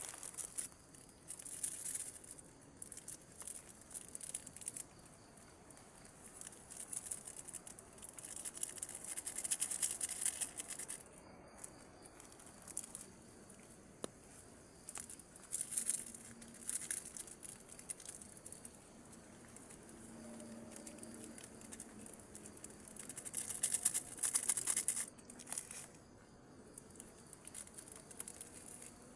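Irregular bursts of rustling and crinkling, each a second or more long and a few seconds apart, over a faint steady background.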